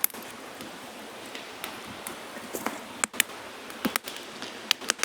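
Small campfire being started, kindling crackling with irregular sharp snaps over a steady faint hiss.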